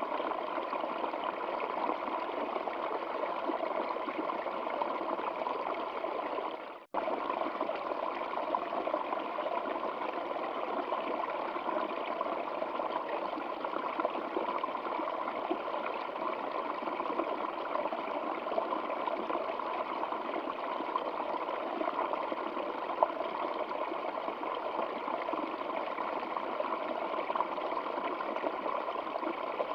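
Stream water flowing and trickling in a steady, even rush. It cuts out for an instant about seven seconds in, then resumes unchanged.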